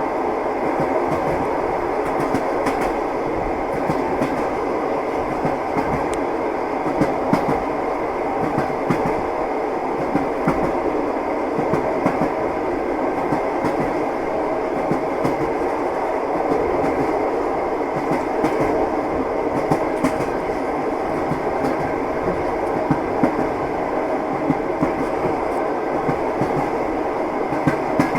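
Train wheels clattering over rail joints as the train runs steadily, a continuous rumble with irregular clicks.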